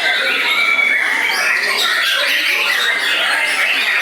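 Several white-rumped shamas singing at once, a dense, unbroken tangle of overlapping whistles and trills, with a murmur of people's voices underneath.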